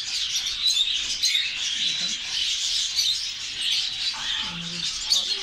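Many caged small birds chirping and twittering at once in a dense, unbroken chorus, among them male canaries.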